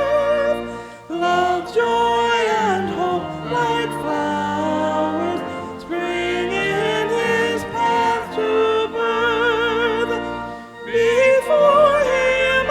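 A solo singer singing a hymn verse over instrumental accompaniment, with vibrato on the held notes and brief breaths between phrases.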